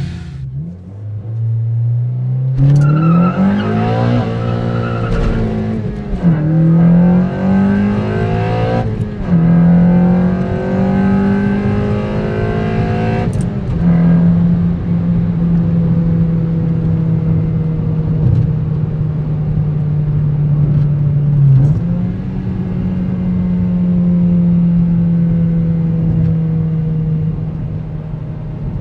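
Cabin sound of a 2012 Honda Civic Si's 2.4-litre four-cylinder engine with an Injen axle-back exhaust and DC Sports short ram intake, pulling up through the gears. The engine note rises in pitch three times, dropping at each upshift, then holds a steady drone at cruise.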